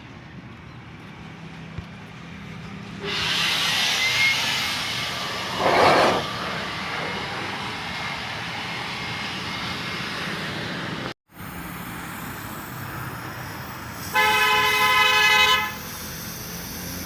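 Street traffic: a vehicle goes by with a rush of noise that peaks about six seconds in. About fourteen seconds in, a vehicle horn gives one steady toot lasting about a second and a half, and it sounds again right at the end.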